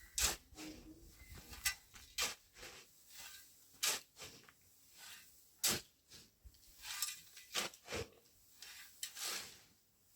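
Irregular knocks, clicks and short rustling scrapes, a dozen or so spread over several seconds, as objects are handled.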